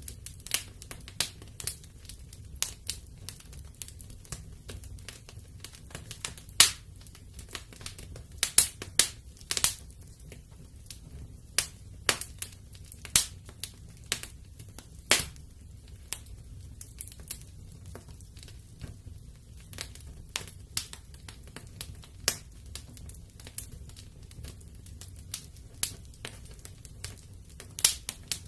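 Wood fire in a fireplace crackling, with irregular sharp pops over a low, steady rumble.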